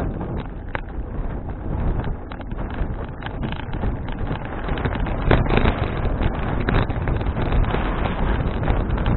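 Wind buffeting an action camera's microphone while riding a bicycle, with scattered sharp knocks, the loudest a little over halfway through.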